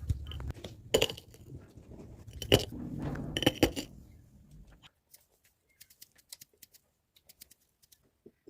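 Sour plums being handled in a dish: three louder clinks and knocks in the first four seconds, then faint scattered light clicks.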